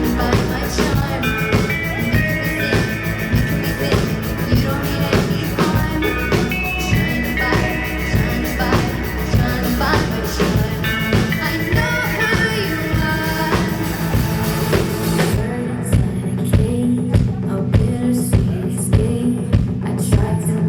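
Live band playing an instrumental passage of a pop-rock song, with a full drum kit and sustained instruments. About 15 seconds in, the upper parts drop out, leaving low held notes and a steady kick drum beat.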